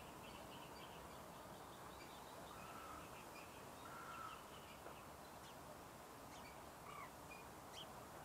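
Faint bird calls: scattered short chirps and a few brief call notes.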